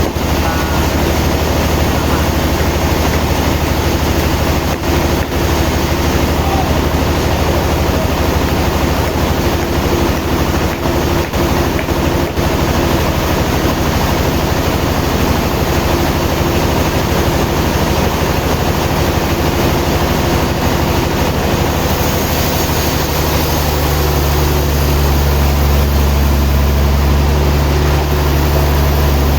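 Sawmill machinery running steadily with a heavy engine hum. About three quarters of the way through, the low hum strengthens and a high hiss comes in.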